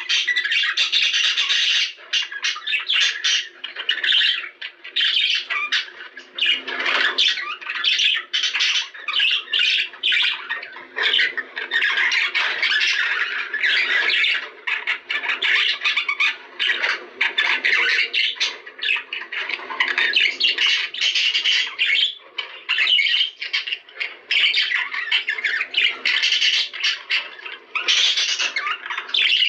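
A flock of budgerigars chattering and squawking continuously, with many short warbles and screeches overlapping.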